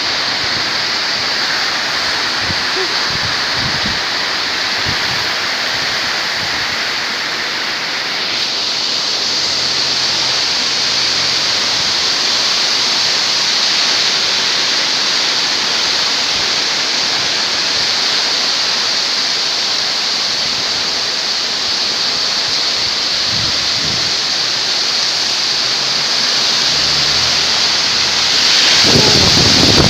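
Strong wind blowing as a loud, steady rushing hiss, with occasional low knocks and a rise in loudness near the end.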